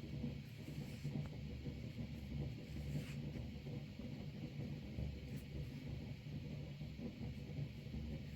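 Steady hiss of rain under an uneven low rumble.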